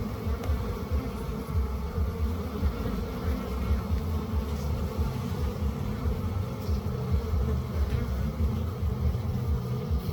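Bees buzzing steadily, over a loud, fluttering low rumble.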